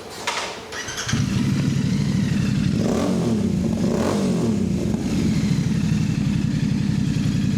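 Royal Enfield Bear 650's 648 cc parallel-twin with a Red Rooster Performance aftermarket exhaust starting on its first start with the new pipe: it catches about a second in, is blipped twice, then settles to a steady idle.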